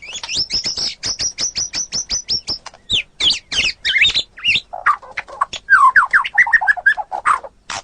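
White-rumped shama (murai batu) in full, vigorous song: a fast run of sharp high notes, about ten a second, then varied whistled phrases, several sliding down in pitch, in the second half.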